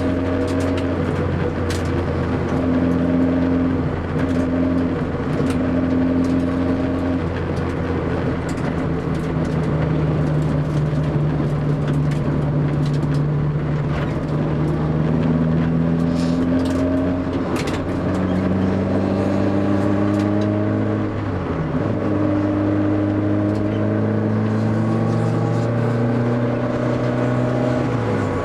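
Honda ZC 1.6-litre twin-cam four-cylinder on 44 mm Solex carburetors with a straight-through titanium exhaust, driven hard: the engine note climbs steadily under load and drops back at each gear change, with a sharp fall about twenty-one seconds in.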